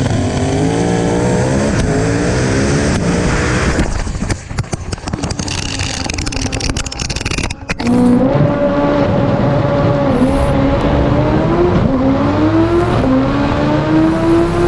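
Drag racing car engines at full throttle. One engine revs up and then breaks into a choppy, stuttering stretch about four seconds in. Then a loud run climbs steadily in pitch, dipping briefly at each gear change.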